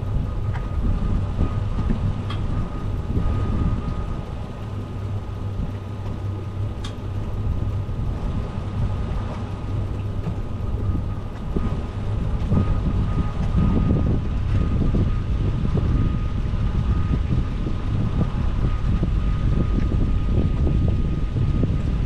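Boat underway on its Yamaha 300 outboard, the engine running with a steady low hum and a faint steady whine, under wind buffeting the microphone.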